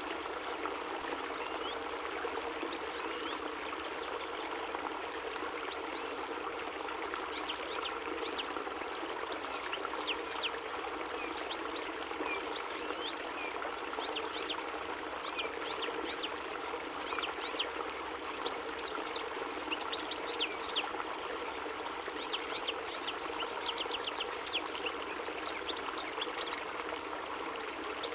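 European goldfinch singing: quick, high twittering phrases made of rapid chirps. They come sparsely at first, then in dense runs that recur every few seconds, over a steady rushing background noise.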